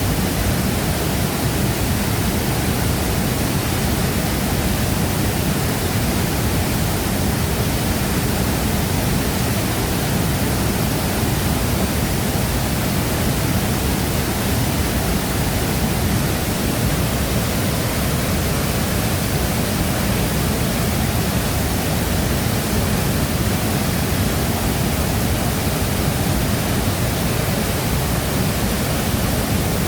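Shifen Waterfall's falling water, a loud, unbroken rushing that stays even throughout.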